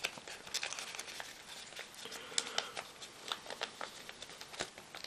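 Origami paper being folded and pinched by hand: faint, irregular crinkles and small paper ticks.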